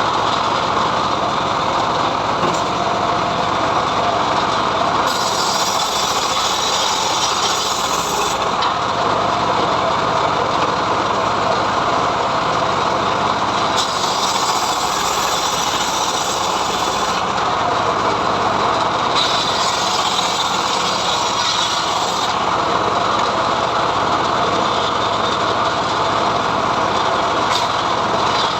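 Homemade sawmill running steadily while its saw blade rips a mahogany log. A harsher high hiss comes and goes in three stretches over the steady machine noise.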